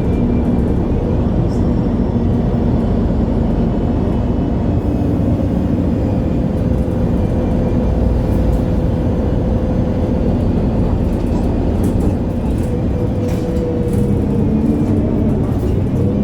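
MAN Lion's City G articulated city bus under way, heard on board: a steady diesel drone with a faint whine in it, the pitch shifting near the end.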